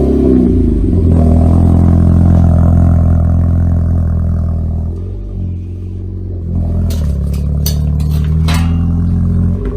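Renault Mégane 4 RS 280's 1.8-litre turbo four-cylinder running through an aftermarket GT Performance exhaust silencer just after its first start, holding a fast cold-start idle. The idle dips about halfway through, picks up again and drops near the end, with a few sharp clicks late on.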